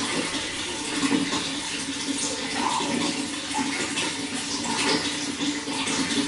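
Running water flowing steadily: a continuous rushing and splashing with no break.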